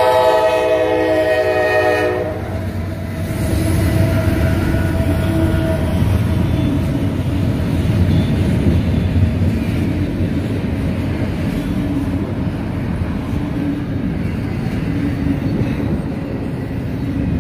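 Diesel freight locomotive's horn sounding a chord that cuts off about two seconds in, then the steady low rumble and clatter of a double-stack container freight train rolling past.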